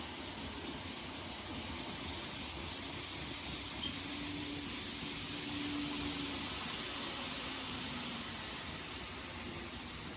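N-scale model JR 103 series train running on the layout's track: a faint low motor hum swells in the middle and fades again, over a steady hiss.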